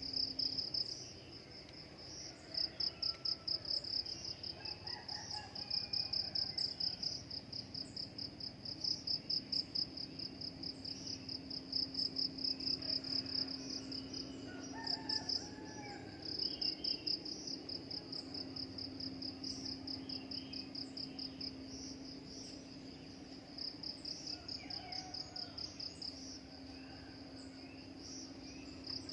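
Insect chirping in rapid, even pulses, in phrases that stop and start, with scattered faint bird calls and a low steady hum underneath.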